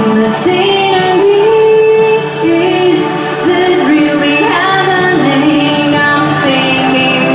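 Woman singing a slow pop ballad with long, gliding held notes over backing music.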